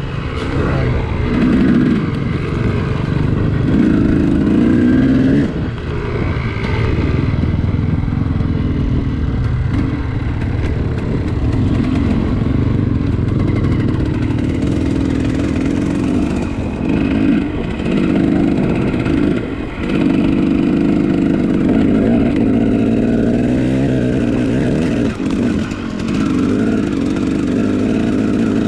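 Enduro dirt bike engine under way, its pitch rising and falling with the throttle, with a few brief dips where the rider backs off.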